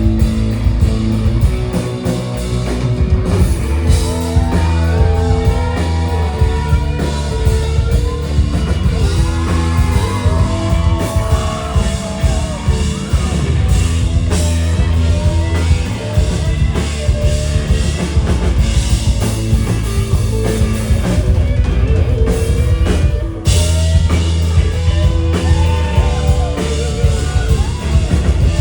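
Live psychedelic rock band playing with a loud drum kit and electric guitar over a heavy low end, with bending melodic lines on top. The sound dips briefly about 23 seconds in, then comes back in full.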